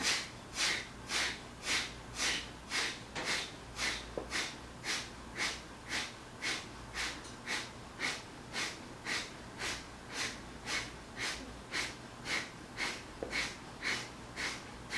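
Kapalabhati breathing: short, forceful exhalations pumped out through the nose in a steady rhythm of about two a second.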